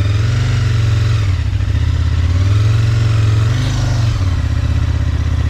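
Aprilia RSV's V-twin engine revving, its note rising and easing off twice before settling.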